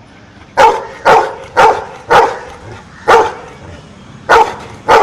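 Pet dog barking out the answer to an addition sum: seven short single barks, starting about half a second in and irregularly spaced, each a separate counted bark.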